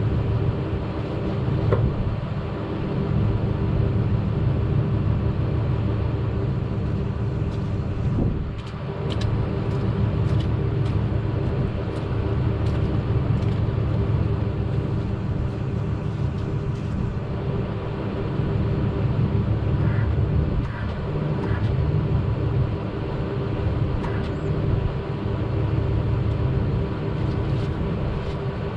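Engine running steadily at a constant speed, with a few scattered light clicks and metallic knocks over it.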